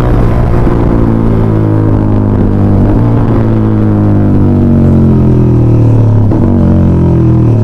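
Yamaha MT-15's 155 cc single-cylinder engine running through a full-system aftermarket exhaust while riding. Its pitch falls slowly as the revs drop, with a brief break about six seconds in.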